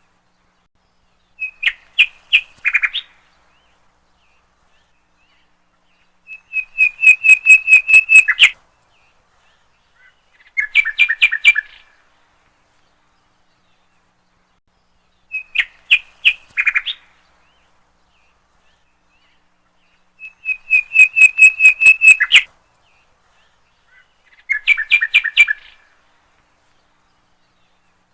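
Bird song: short phrases of rapid, evenly spaced chirps, each lasting one to two seconds, with silent gaps between them. The same three-phrase sequence plays twice, about 14 seconds apart, as a looped recording does.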